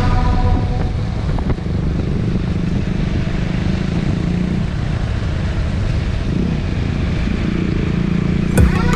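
Motorcycle engine running steadily, a low rumble whose pitch wavers slightly.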